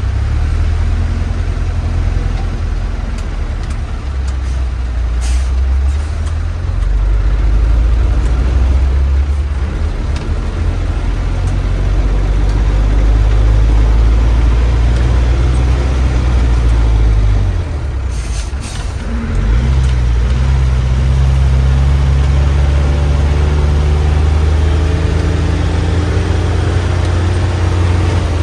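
Heavy bus's diesel engine labouring under load while the bus is stuck. It dips briefly about two-thirds of the way through, then picks up again with rising pitch, with a couple of short clicks or hisses.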